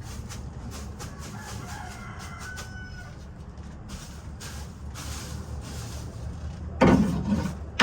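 Chickens calling, with faint high notes early on and one loud call near the end, over a steady low hum.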